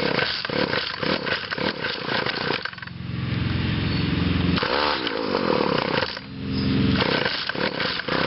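Weed Eater GTI 19 two-stroke string trimmer being pull-started from cold on choke, sputtering and catching only briefly between pulls of the starter cord, not staying running.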